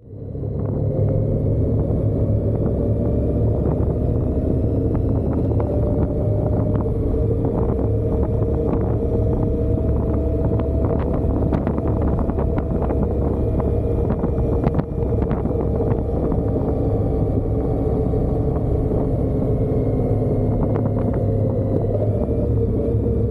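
Motorcycle engine running at a steady cruise with wind rushing past, a heavy low rumble under a slowly wavering engine tone.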